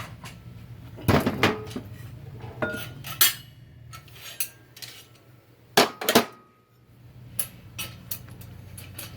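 Metal parts of a 4L60-E automatic transmission clanking and clinking as it is taken apart by hand: irregular sharp knocks, a few of them ringing briefly, loudest about a second in and twice around six seconds. A steady low hum runs underneath.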